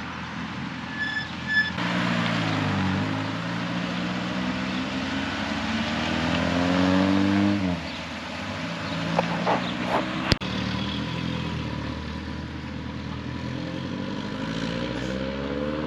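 Car engines pulling away one after another, each rising in pitch as it accelerates; the loudest climbs for several seconds and falls off about eight seconds in, and another starts rising near the end. Two short high beeps come about a second in, and a sharp click about ten seconds in.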